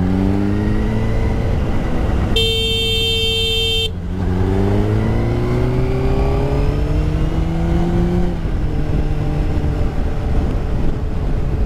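Honda CBR125's single-cylinder engine riding through traffic. About two and a half seconds in, a vehicle horn blows one flat note for about a second and a half. The engine then pulls, rising steadily in pitch for about four seconds before dropping at a gear change.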